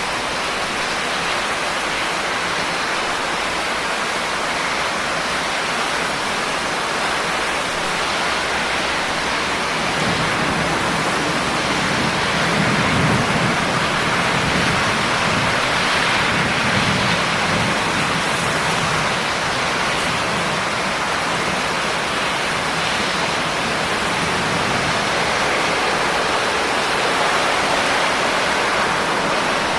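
Steady rain, an even hiss of falling drops. About ten seconds in, a low rumble swells and fades again by about twenty seconds.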